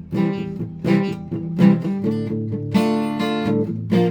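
Acoustic guitar strumming chords in a steady rhythm, with a chord left ringing for a second or two past the middle.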